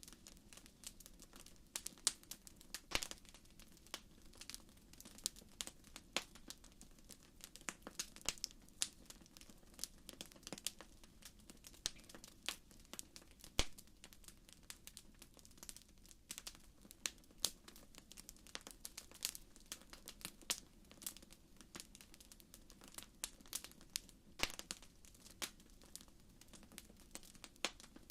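Wood fire crackling in a fireplace: irregular sharp pops and snaps, several a second, over a faint low background.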